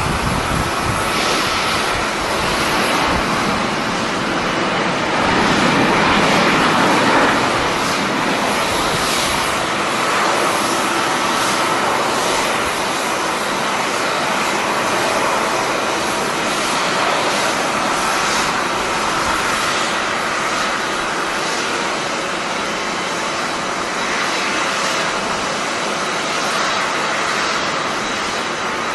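Jet airliner engines, a steady broad rush that swells to its loudest about six seconds in, with wind gusting on the microphone.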